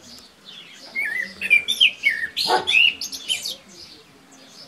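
A bird singing outdoors: quick chirps and short trills that glide up and down, bunched between about one and three and a half seconds in, with one louder, harsher note near the middle.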